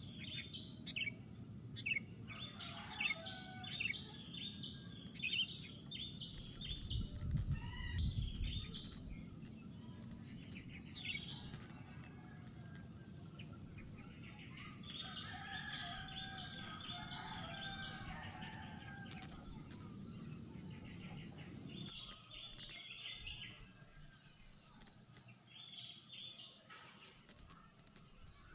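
Outdoor ambience of a steady, high insect drone with many short bird chirps and calls over it. A low rumble underlies it and swells about a quarter of the way in, then cuts off abruptly about three-quarters of the way through.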